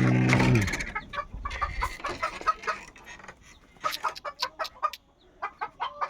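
Chickens clucking, a string of short separate clucks and calls. In the first second a steady low drone, the loudest sound here, runs on and then stops abruptly.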